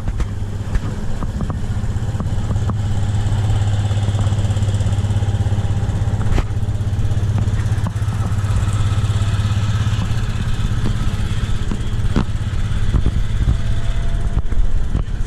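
A vehicle engine idling steadily with a low, even rumble, with a few short knocks over it.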